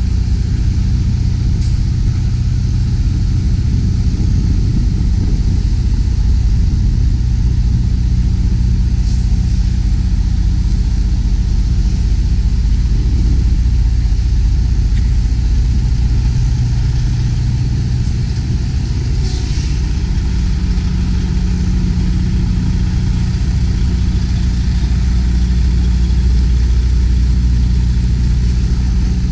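Semi tractor's diesel engine running steadily at low speed with a deep, even hum.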